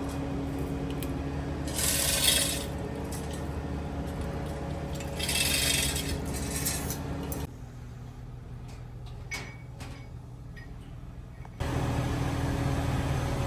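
Steady low hum of heavy machinery with two bursts of hissing. Partway through it drops to a quieter stretch with a few scattered metal clinks and taps, then the hum returns.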